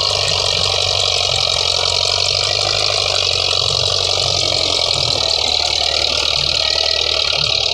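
Old tractor's diesel engine running steadily.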